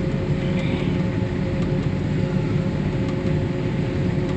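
Heavy farm harvest machinery running during corn harvest: a steady engine drone with a constant whine riding on top.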